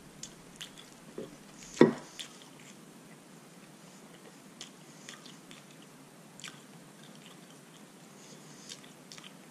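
A man chewing boiled polar bear paw meat: faint, scattered mouth clicks, with one louder knock about two seconds in.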